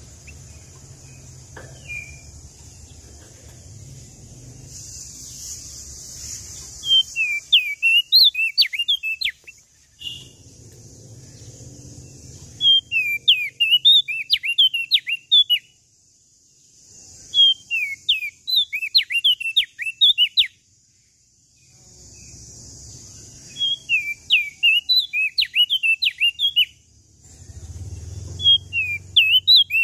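Prenjak daun lombok (leaf warbler) singing in repeated phrases, each about three seconds of quick, high, rising-and-falling chirps, with short pauses between, over a steady high hiss.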